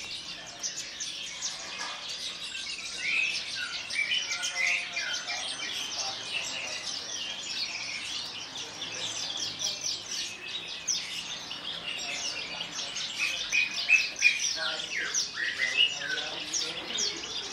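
Javan bush lark (branjangan) singing a continuous, rapid song of quick chirps, trills and short slurred notes.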